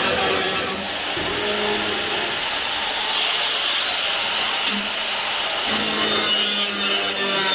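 A power tool running steadily with a harsh rasping noise over a low motor hum; the hum drops out briefly about a second in and again a little before the middle.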